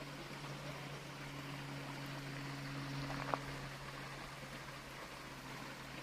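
Steady rush of flowing river water over a steady low hum, with a single sharp click a little past halfway.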